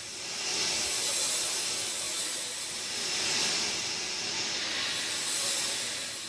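Steady rain, a dense hiss of falling drops that slowly swells and eases every few seconds.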